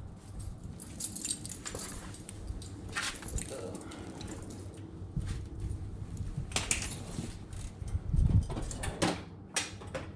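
Hand tools and screwdriver bits being handled, with irregular metallic clicks, clinks and knocks, a louder clatter about eight seconds in.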